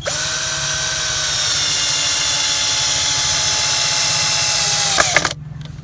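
Power drill-driver running steadily for about five seconds, driving a screw to fasten a support for the mill's guide board, its pitch dipping slightly under load before it stops abruptly.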